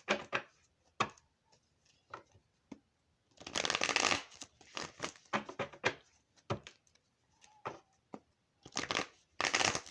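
A tarot deck being shuffled by hand. The longer rustling runs of cards sliding together about three and a half seconds in and again near the end are set off by short snaps and taps of the cards.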